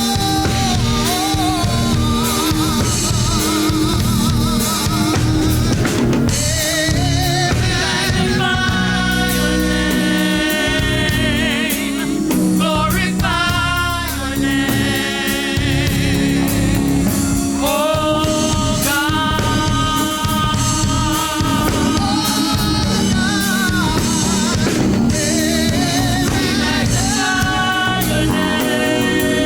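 Gospel song: a singer with a wavering vibrato voice over a band with drums and a strong bass line.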